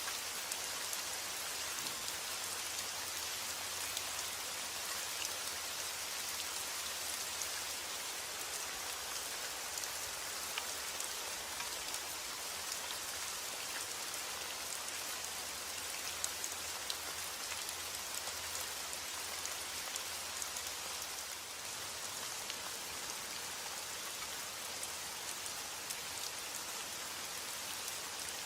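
Steady rain falling on a hard surface, a dense even hiss with scattered drop patters.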